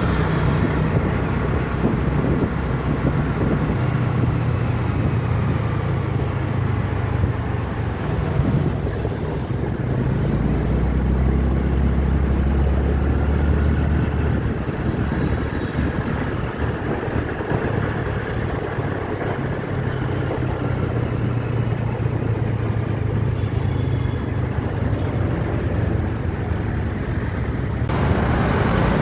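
Steady motor-vehicle and road-traffic noise: a low engine rumble with tyre and road hiss, louder and brighter about a second before the end.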